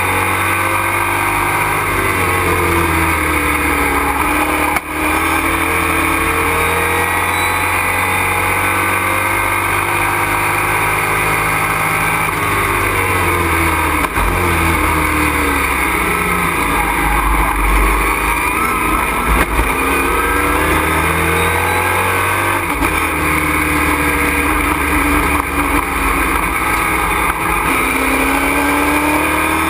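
Race truck's engine heard from inside the cockpit at racing speed, its pitch repeatedly climbing under acceleration and falling off, with brief sharp drops about five and fourteen seconds in.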